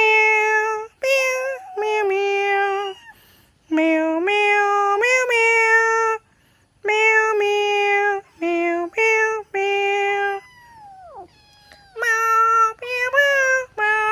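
Kittens meowing: a string of short calls, most held at a fairly steady pitch, with one long meow sliding down about ten seconds in.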